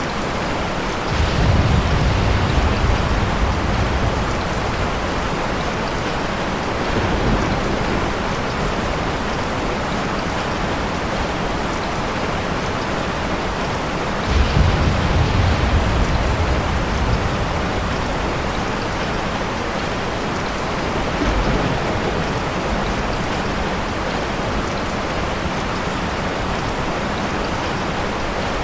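Steady rain falling, with thunder rumbling in it several times: a rolling rumble about a second in, a fainter one a few seconds later, the loudest roll about halfway through, and a short one after that.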